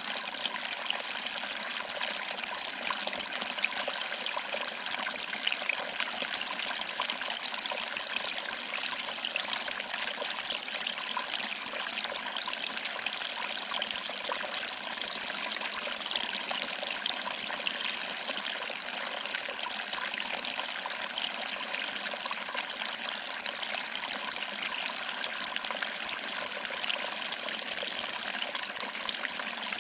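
Small waterfall: water trickling over rocks and splashing into a pool below, a steady, unbroken rush that sits mostly in the higher pitches with little low rumble.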